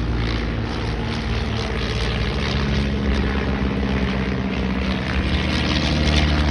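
Piston-engined propeller aircraft flying past, a steady engine drone that grows a little louder toward the end.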